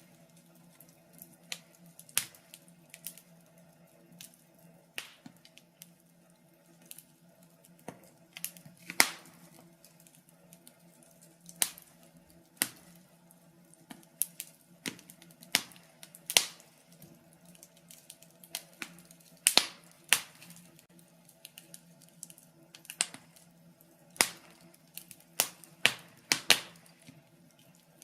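Wood fire burning in a fireplace, crackling with irregular sharp pops and snaps, a few louder ones, over a faint steady hum.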